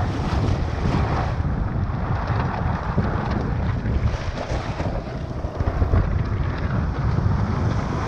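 Strong wind buffeting the microphone in a heavy low rumble, over the steady wash of shorebreak surf.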